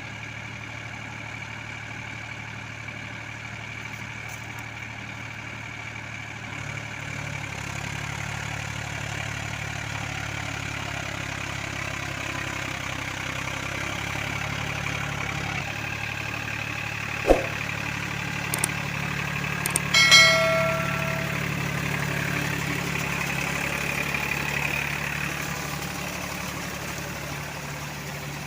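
Powertrac Euro 45 Plus tractor's diesel engine running steadily, growing a little louder about a quarter of the way in. A sharp knock comes a little past halfway, and a louder metallic clank with brief ringing follows a few seconds later.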